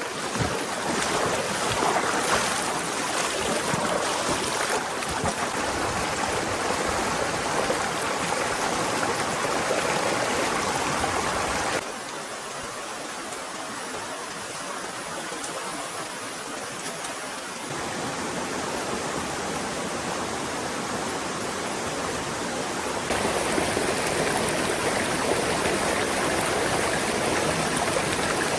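A forest stream running and gurgling steadily. The level drops abruptly a little before the middle, then comes back up in two steps.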